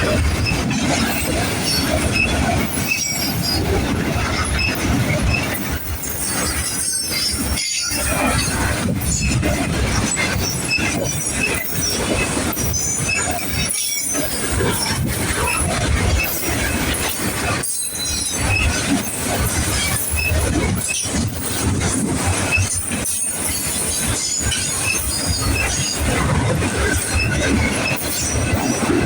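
A manifest freight train rolling past, its steel wheels running on the rails with a steady loud rumble and scattered short high-pitched squeals, with brief gaps near the middle.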